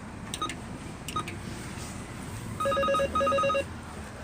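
Door intercom panel: two short keypad beeps as a number is entered, then the electronic call tone, two quick runs of about four pulsing beeps.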